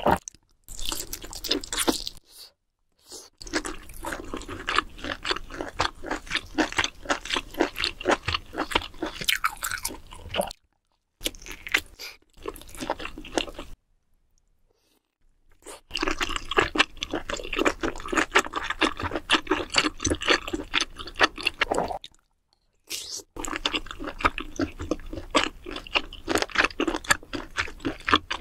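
Close-miked mukbang eating: a person biting and chewing spicy sauced seafood, with rapid wet, crunchy and squishy mouth sounds. The chewing stops for several short silent gaps.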